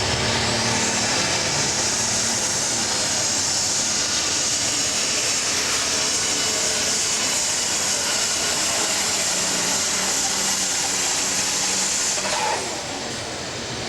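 Diesel super stock pulling tractor at full throttle during a pull, its turbocharged engine running hard with a loud, high whine that climbs about half a second in and then holds steady. About twelve seconds in the engine backs off and the whine drops away.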